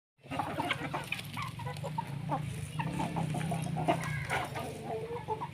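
A flock of chickens clucking busily with many short, overlapping calls as they feed on a broken-open termite nest. A steady low hum runs underneath.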